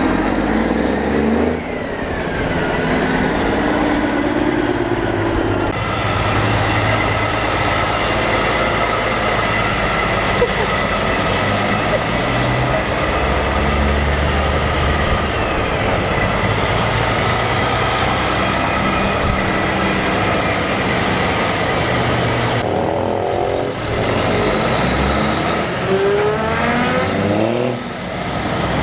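Heavy trucks' diesel engines running as they drive past, engine pitch stepping up and down through gear changes. Several quick rising runs of revs come near the end.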